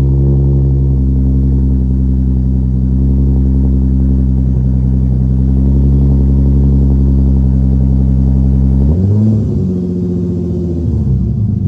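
Lexus IS350's 3.5-litre V6 idling steadily through its exhaust, then revved briefly about nine seconds in and settling back to an uneven idle.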